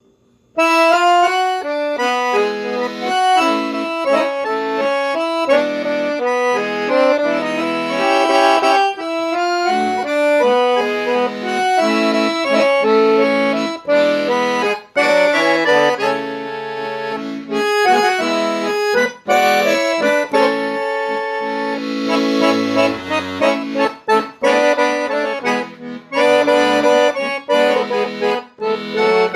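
Solo accordion (sanfona) playing a caipira melody over held bass notes, starting about half a second in.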